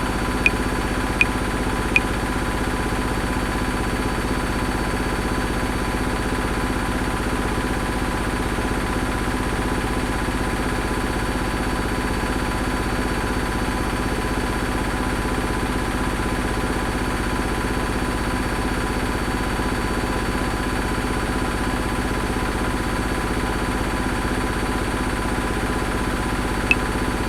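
Washing machine running with a steady hum. A metronome clicks at 80 beats a minute three times in the first two seconds, stops, and comes back once near the end.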